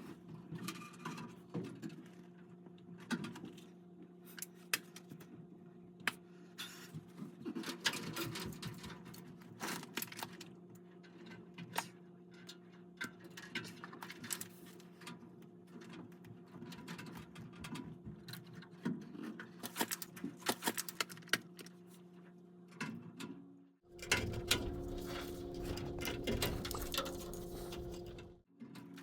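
A steady mechanical hum with many scattered light clicks and taps of handling. About 24 seconds in, a louder rushing noise starts abruptly, lasts about four seconds and cuts off.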